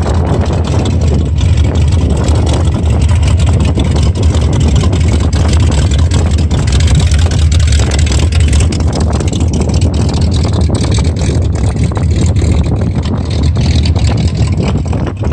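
A vehicle's engine running close by, a steady low rumble.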